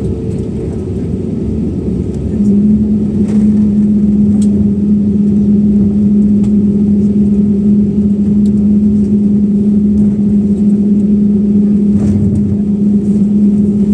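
Steady low running drone of a vehicle, with a constant hum that comes in about two seconds in and makes it louder.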